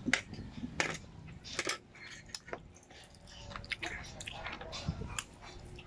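A man chewing and biting on boiled chicken feet at close range, with irregular small clicks and smacks from his mouth.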